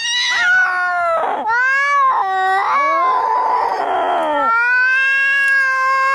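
Angry domestic cats caterwauling as in a fight: long, drawn-out yowls that waver in pitch, with a harsher, noisier screech around the middle.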